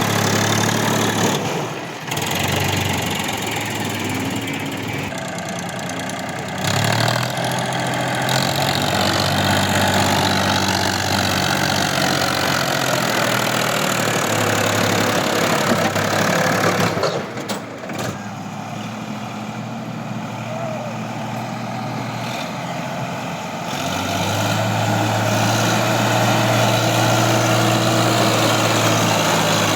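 Diesel tractor engine running, mostly at a steady idle-like hum. Its note and level shift abruptly several times: a couple of seconds in, about a quarter of the way through, a little past halfway, and about four-fifths of the way through.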